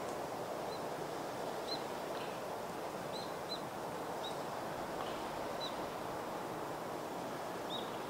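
Outdoor ambience: a steady rushing background noise, with a small bird giving short, high chirps at irregular intervals, about once a second.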